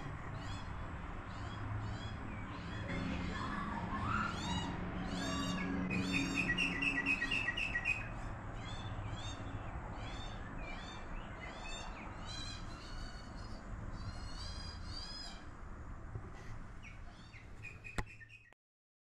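Birdsong outdoors: several birds giving quick, repeated high chirps, with a short trill about six seconds in, over a steady low hum. It cuts off abruptly near the end.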